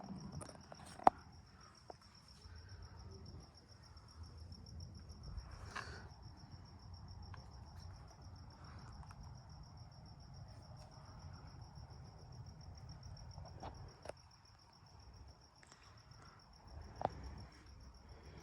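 Insects trilling steadily outdoors in a high, evenly pulsing tone, over a low, steady rumble, with a few sharp clicks scattered through.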